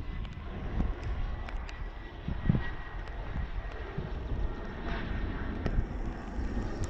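Jet airliner engines: a steady distant rumble with a faint thin whine, under wind buffeting the microphone.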